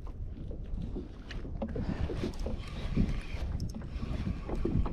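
Wind buffeting the microphone and choppy water slapping against a kayak hull, with small scattered knocks and clicks.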